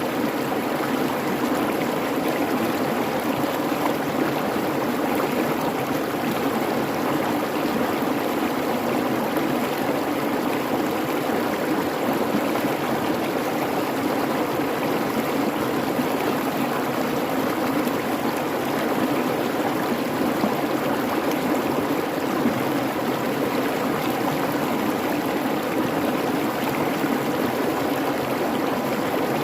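A creek babbling and rushing steadily over its bed.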